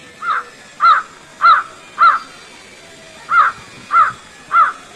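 A bird giving loud, harsh calls in two runs: four evenly spaced calls, a short pause, then three more.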